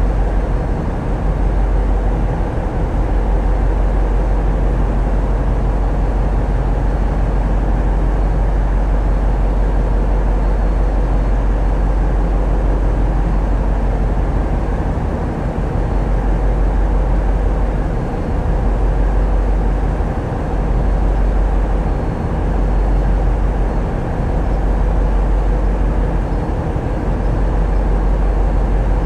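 Tugboat's diesel engines running steadily: a loud, deep, continuous drone with a faint steady whine above it, dipping slightly a few times.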